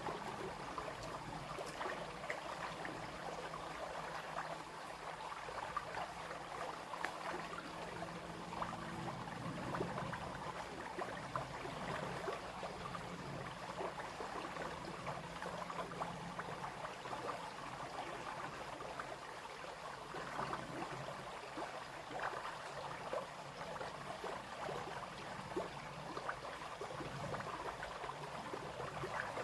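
Small brook running steadily, the water babbling and trickling over stones with no break.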